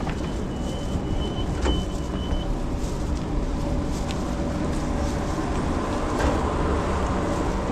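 London Overground Class 378 electric train heard from on board, with a steady rumble and a thin high whine in the first two seconds. A couple of sharp clicks come about two seconds in and again about six seconds in.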